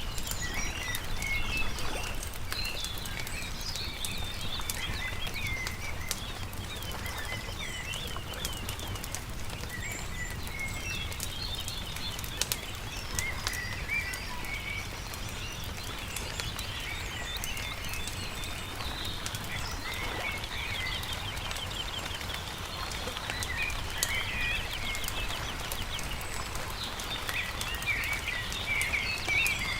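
Several songbirds chirping and trilling throughout, over the scattered pops and crackles of a wood campfire and a steady low rumble.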